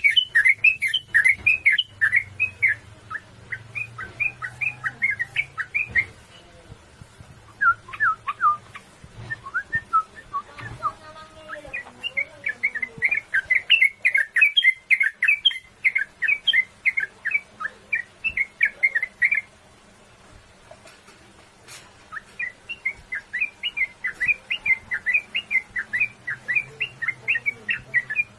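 Sooty-headed bulbul (trucukan) singing in long, fast runs of short chirping notes, several a second. The song comes in bouts broken by pauses of a second or two, the longest near two-thirds of the way through.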